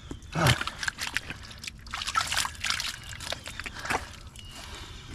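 Muddy water sloshing and splashing in uneven strokes, with trickling, as the flooded hole around a broken water main is worked in.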